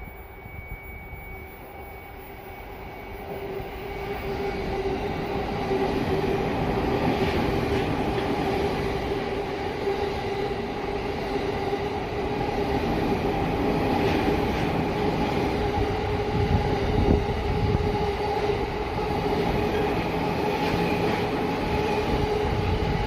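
E231 series 1000 electric commuter train passing through a station without stopping. The rumble of wheels on rail builds over the first few seconds and then holds loud and steady, with a constant whine running through it.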